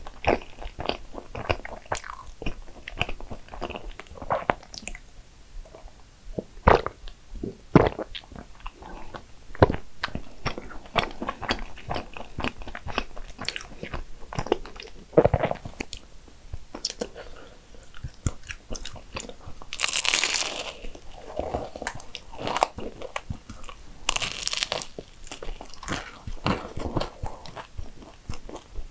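Close-miked eating sounds of a person chewing pastry, with many small wet mouth clicks. Two louder crackling bursts come about twenty and twenty-four seconds in.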